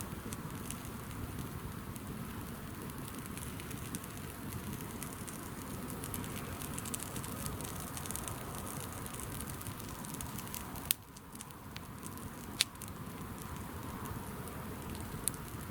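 Campfire burning: a steady hiss with scattered crackles and pops, and a few louder snaps in the second half.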